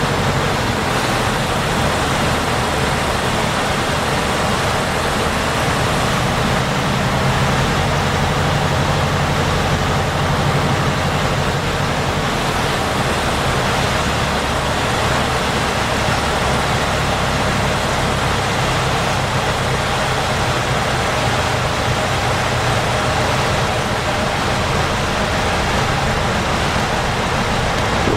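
Lycoming O-320 four-cylinder aircraft engine and propeller of a Zenair CH-300, heard from inside the cabin as a loud, steady drone under a rushing air noise. The engine note shifts slightly about six and twelve seconds in.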